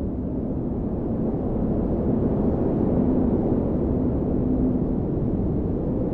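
Blizzard wind blowing steadily, a low rushing noise with a faint howling tone in it, swelling slightly about two seconds in.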